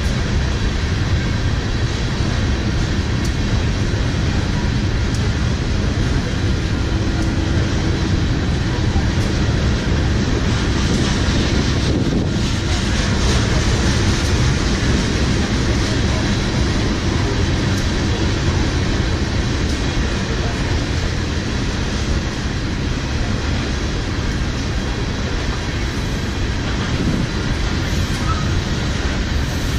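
Freight train of ethanol tank cars rolling past, a steady rumble and rush of steel wheels on rail.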